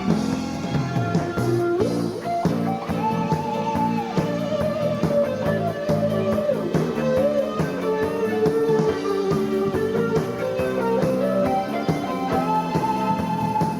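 Live pop band playing an instrumental passage, a lead guitar carrying the melody in long held notes over bass, drums and keyboards.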